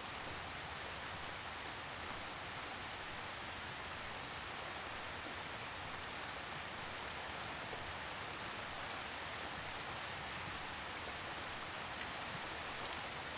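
Steady, gentle rain falling, with a soft even hiss and faint scattered drops.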